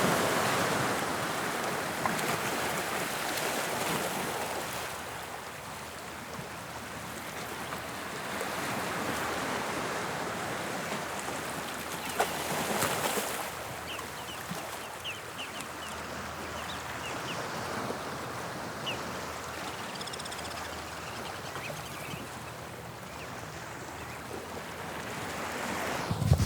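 Waves of the English Channel washing onto the shore: a continuous hiss of surf that swells and ebbs, with a louder splash about halfway through.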